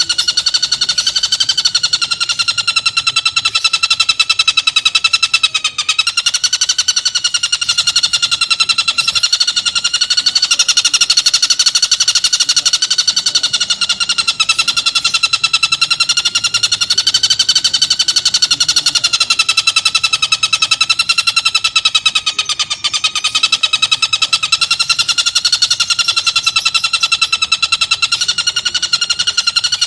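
Tengkek buto kingfisher giving a continuous harsh, very fast rattling call, its pitch wavering gently up and down.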